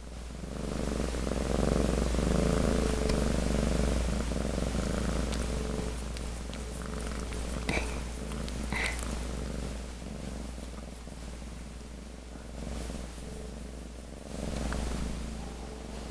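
A cat purring steadily and close up, loudest in the first few seconds, with two brief sharp sounds about halfway through.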